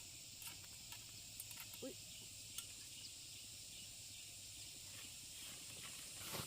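Faint, steady high-pitched insect chorus of crickets or similar insects, with a few faint clicks.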